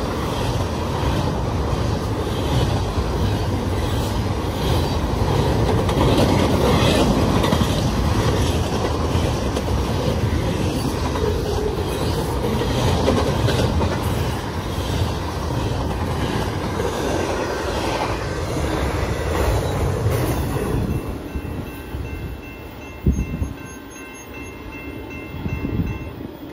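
Double-stack intermodal freight train rolling past close by, its wheels rumbling and clacking over rail joints in a steady rhythm. About twenty seconds in it drops to a quieter, more distant rumble with faint steady tones and a single sharp knock.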